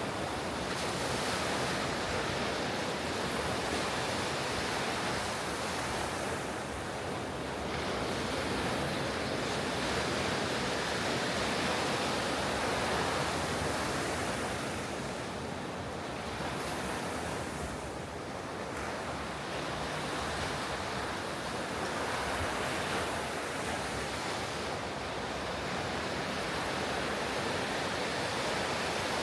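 Ocean surf breaking on a beach: a continuous rushing wash that swells and eases every several seconds as waves break and run up the shore.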